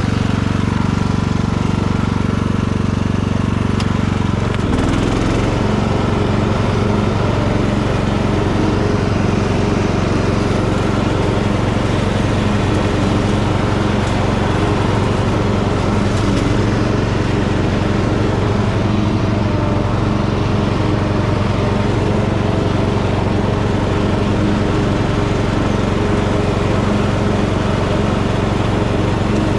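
Tractor engine running steadily while mowing tall grass; its note changes about four and a half seconds in, then holds steady.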